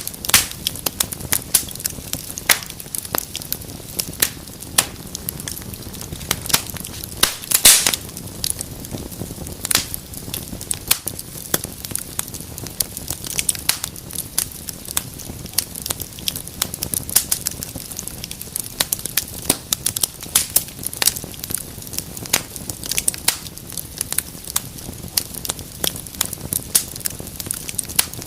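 Wood fire in a fireplace crackling, with many sharp, irregular pops and snaps over a low, steady rush of flame. A cluster of louder pops comes about a third of the way through.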